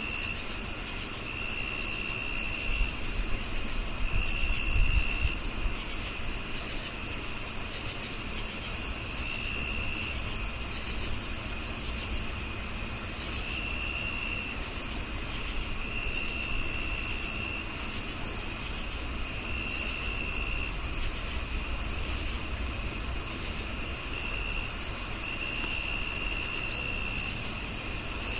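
Crickets chirping in chorus: a steady high trill, with regular chirps about three a second and a lower trill that comes and goes in spells of a second or so.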